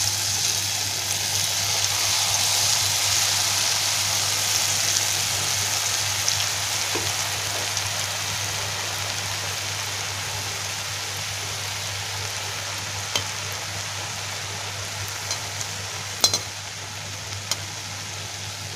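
Jalebi batter frying in hot oil, a steady sizzling hiss that gradually eases. Near the end come a few sharp clicks of a metal spatula against the pan.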